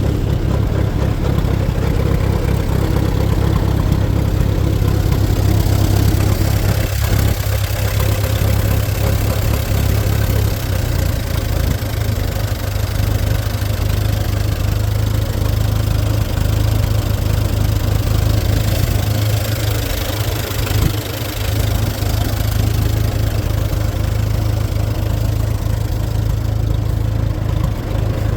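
Old Fordson tractor engine, just freed after being seized, running steadily at idle. Its deepest rumble fades about a third of the way through, and the running note dips briefly twice.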